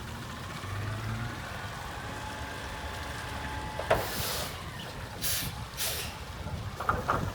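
Front-loading garbage truck with a Curotto-Can running, with a faint whine over the engine. A sharp metal clank about four seconds in is followed by three short bursts of air hiss, then a few more knocks near the end.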